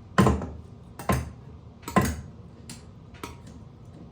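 Sharp metallic knocks and clinks: three loud ones about a second apart, then a couple of fainter ticks, as a ceiling exhaust fan's metal housing and parts are worked loose with a small flathead screwdriver.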